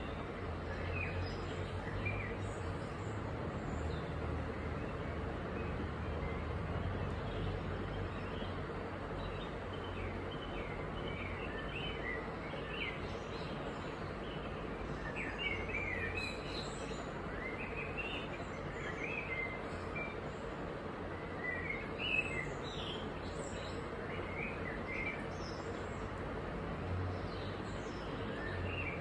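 Small birds chirping intermittently over steady background hiss and a faint low hum, the hum strongest in the first third.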